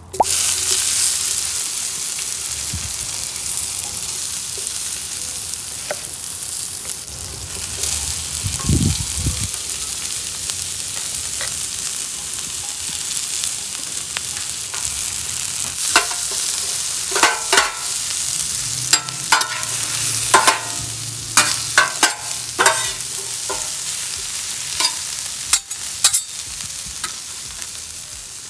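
Cubes of pumpkin-seed tofu and chopped onion sizzling in oil on a hot flat-top griddle: a loud, steady hiss that starts suddenly at the beginning. From a little past halfway, the food is stirred and turned, with many sharp clacks and scrapes against the griddle surface.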